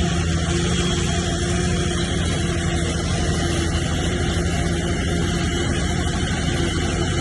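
Heavy diesel engine of earthmoving machinery running steadily, a constant drone with a higher whine that fades in and out.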